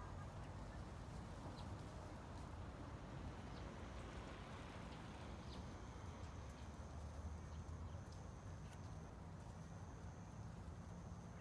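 Faint, steady outdoor ambience with a low hum and scattered light clicks or knocks; a faint high-pitched tone comes and goes in the second half.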